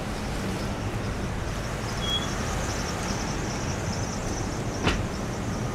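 Steady rumbling outdoor noise, with a brief high chirp about two seconds in and a single sharp click near the end.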